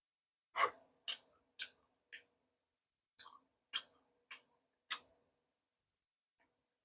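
Close-miked crunchy chewing of food: sharp crisp crunches at about two a second, pausing briefly midway and again before a couple of final crunches.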